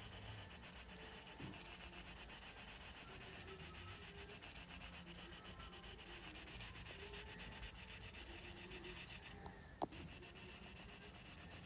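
Faint quick back-and-forth rubbing strokes on a touchscreen as colour is blended in, with one sharp tap about ten seconds in.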